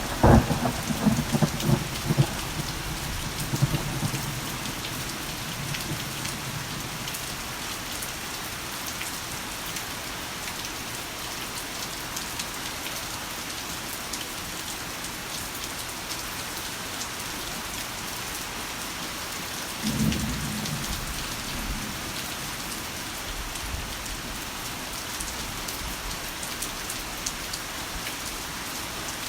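Heavy rain falling steadily, with a loud clap of thunder right at the start that rumbles on for several seconds, and a second, weaker rumble of thunder about two-thirds of the way through.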